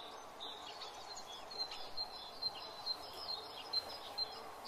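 Outdoor ambience: small birds chirping rapidly and repeatedly, high-pitched, over a steady background hiss.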